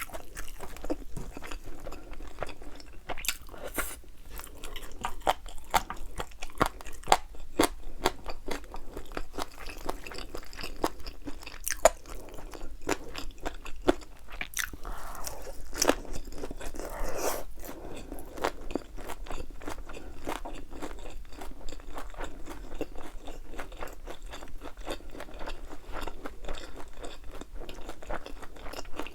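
Close-up crunching and chewing of crispy, thin-battered fried chicken wings, a steady run of irregular crackles and bites.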